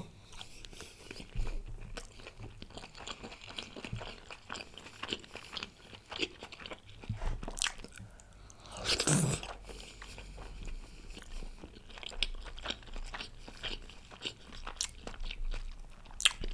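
Close-miked eating sounds of a man biting into and chewing chicken momos (steamed dumplings): many small clicks from the mouth, with one louder, longer noise about nine seconds in.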